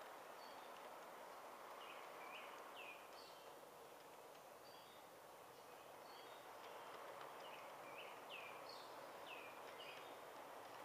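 A songbird calling in two bursts of short, falling chirps, about two seconds in and again around eight seconds, over a faint, steady background noise.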